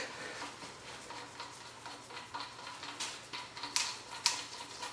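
Faint metallic ticking and clinking of engine parts and tools being handled, with two sharper ringing clinks about half a second apart late on.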